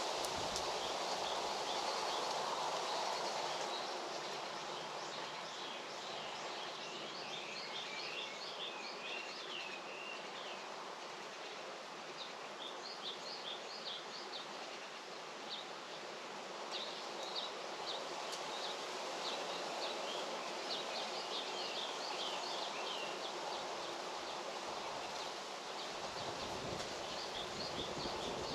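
Songbirds singing in bouts of quick, chirping phrases over a steady outdoor hiss of rustling and background noise.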